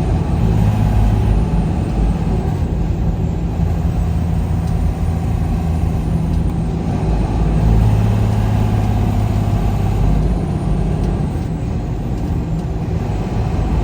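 Truck engine running steadily under way, a low, even engine hum over road noise.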